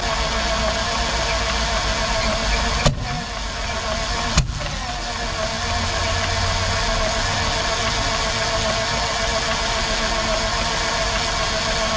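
Rolls-Royce Meteor engine being turned over in a start attempt: a steady mechanical running noise, broken by two sharp bangs about a second and a half apart, around three and four and a half seconds in.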